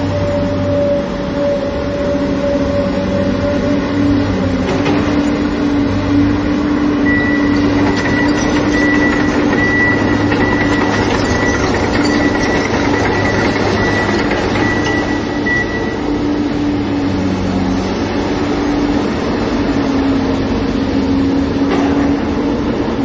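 Excavator's diesel engine running steadily with a low drone and a dense mechanical clatter; a thin high whine comes and goes through the middle.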